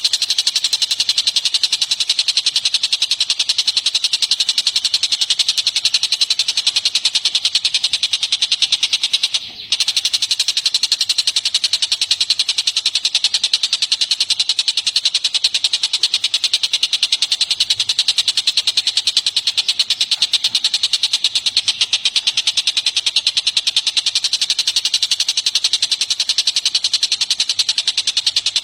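Rapid, continuous high-pitched trilling of recorded songbird calls played as training audio for cage birds, with one short break about nine and a half seconds in.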